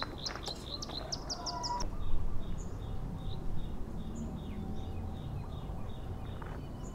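Small birds chirping: a quick run of high chirps in the first two seconds, then a steady train of short, evenly spaced chirps, over a low, even outdoor background noise.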